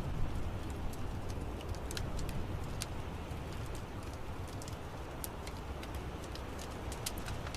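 Wood fire crackling in an outdoor fireplace: irregular sharp crackles and pops over a steady low rumble of the burning fire.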